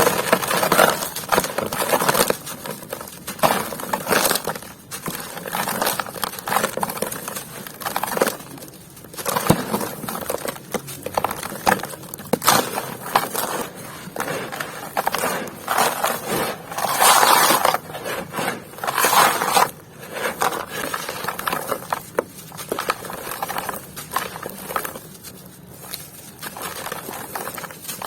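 Dry, dusty material being crumbled and crushed by hand, giving a continuous irregular crunching and crackling with louder bursts of crunch every few seconds.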